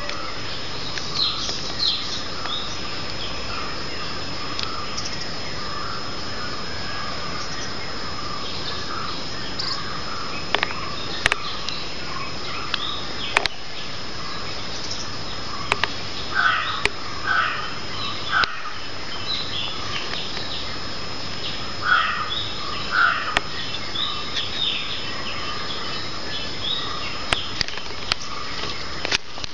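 Birds calling now and then with short chirps, in clusters near the start, around the middle and a little later, over a steady hiss with a faint high whine. A few sharp clicks.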